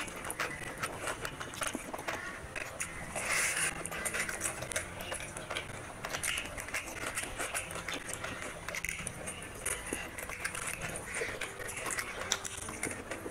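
Close-miked eating sounds of rice and chicken curry eaten by hand: wet chewing and lip smacking, a rapid, irregular run of sticky clicks, with a louder squelch about three and a half seconds in.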